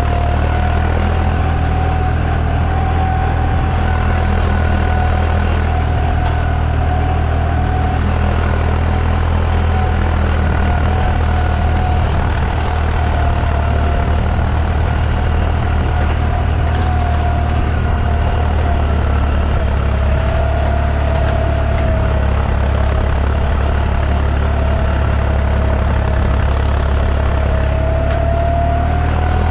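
Deutz 55F tractor's diesel engine running steadily while pulling a field cultivator, with a steady, slightly wavering whine above the engine note.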